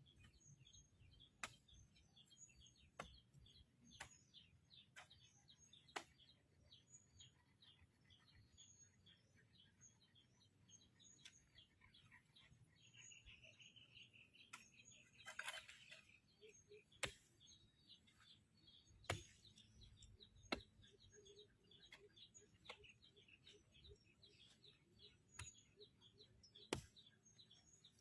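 Faint bird chirping, many short quick chirps throughout, with a denser burst about halfway through, and a dozen scattered sharp clicks standing out above it.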